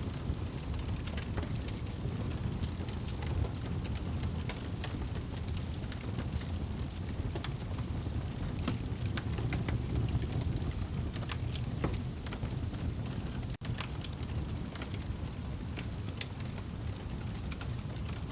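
Crackling fire, with frequent small sharp pops and snaps, over a steady low rumble of rain. The sound drops out for a moment about two-thirds of the way through.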